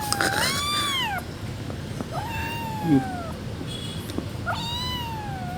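Kitten meowing: three long, high-pitched calls, each sliding down in pitch at the end. A short, loud knock sounds about three seconds in.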